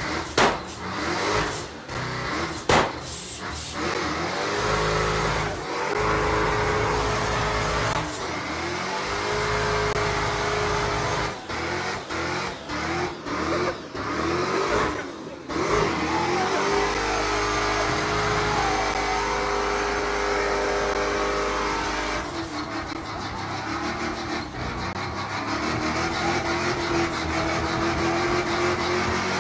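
Car engines revving and accelerating, the pitch rising, falling and levelling off again and again, with sharp cracks between some of the revs.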